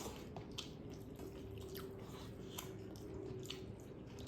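Quiet mouth sounds of eating rice and dal: soft, wet chewing and squelching with a few faint scattered clicks, over a steady low hum.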